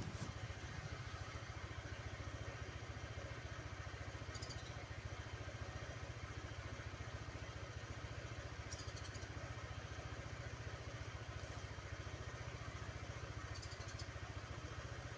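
An engine running steadily at idle, with a faint brief high chirp about every four and a half seconds.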